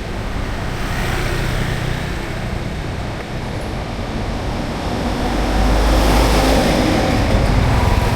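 Street traffic noise with a vehicle passing close by, its low rumble growing louder over the last few seconds.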